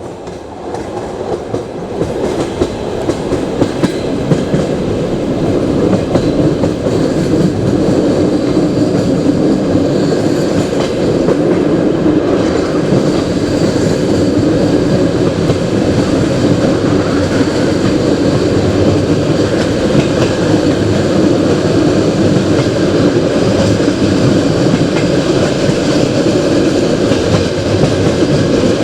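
Passenger train running along the track: a steady rumble and rattle of wheels on rails, rising in level over the first few seconds and then holding steady.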